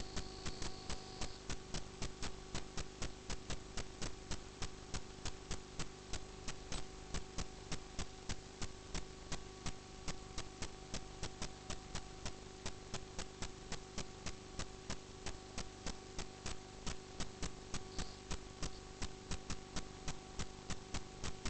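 Steady, even ticking, about three clicks a second, over a constant electrical hum.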